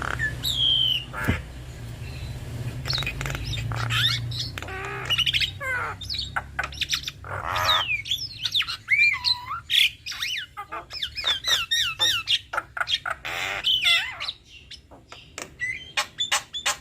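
Male and female Javan mynas calling in duet: a fast, varied string of harsh squawks and chatter mixed with short sweeping whistles.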